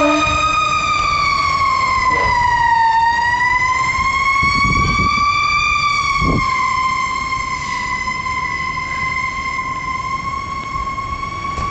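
Federal Q mechanical siren on a fire truck wailing, its pitch sagging and then rising again slowly before holding steady, over the low rumble of the responding truck.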